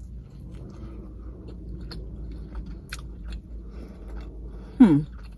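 Chewing and biting on a fried chicken sandwich with a soft bun, with small wet mouth clicks. Near the end comes one short, falling vocal 'mm', the loudest sound here.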